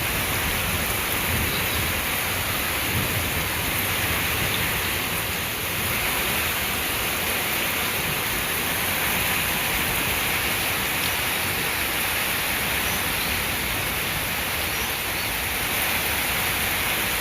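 Heavy rain pouring steadily in a thunderstorm.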